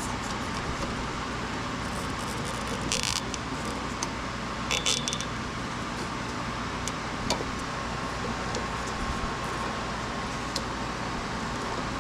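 A steady low mechanical hum, with two short hissing sounds about three and five seconds in and a few faint clicks.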